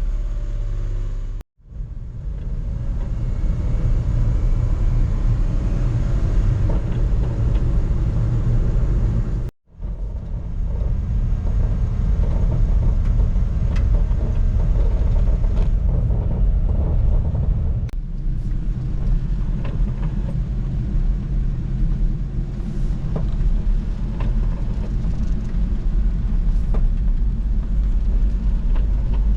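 Kei truck on the move: steady low engine and road rumble, in edited segments that cut off abruptly about one and a half seconds in and again near ten seconds.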